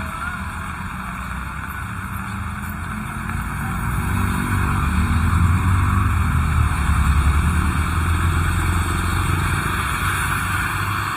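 Steady rain with a motor vehicle's engine passing close by, growing louder from about four seconds in and easing off near the end.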